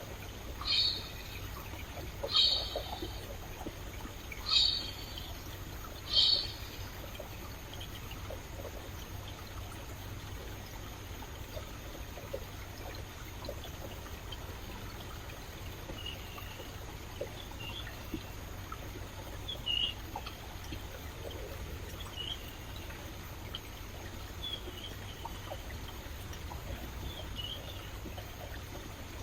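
Stream water trickling and running steadily, with a bird calling loudly four times in the first seven seconds, then softer short chirps later on.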